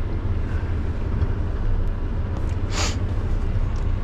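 Mercedes Econic refuse truck driving, heard from inside the cab: a steady low engine and road rumble, with one brief hiss a little under three seconds in.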